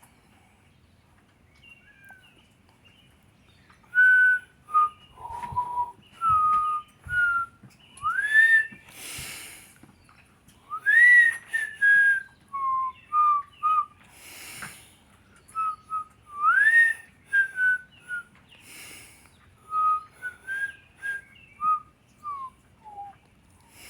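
A woman whistling a patriotic tune by mouth: a melody of separate clear notes with several upward swoops between them, starting about two seconds in.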